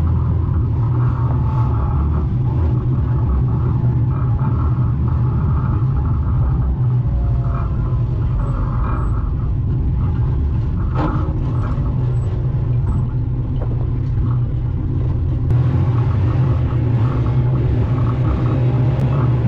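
Morris 1100's four-cylinder A-series engine running steadily at low revs, heard from inside the car's cabin, with a single sharp knock about eleven seconds in.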